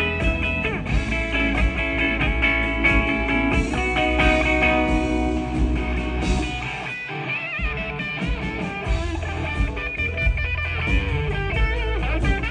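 Blues played on electric guitar: picked lead lines over a steady low bass. About seven seconds in the bass drops out briefly under a bent, wavering guitar note, then comes back.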